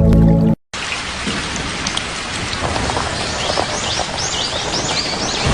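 Music cuts off, then steady rainfall hiss. In the second half a bird gives a quick series of high, arching chirps over the rain.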